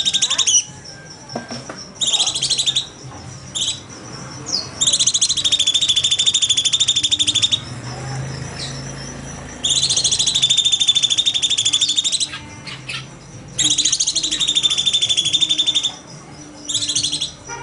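Cucak cungkok singing in fast, buzzy trills of rapid-fire notes ('tembakan'), each burst lasting two to three seconds. Short separate notes fall in the pauses between bursts.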